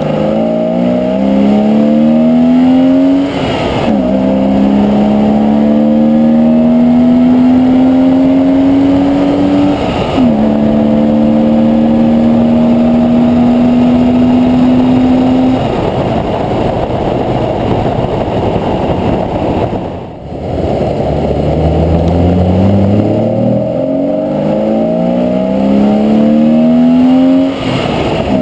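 BMW Z3 engine accelerating through the gears, its pitch rising in each gear, with upshifts about 3.5 and 10 seconds in. Around the middle the throttle eases and tyre and road noise take over. Then it pulls up through the gears again, with another upshift near the end.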